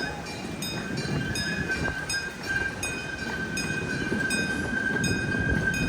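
Kansas City Zoo Railroad train pulling into the station, running with a low rumble and a steady high tone, while something on it dings in an even rhythm about three times a second.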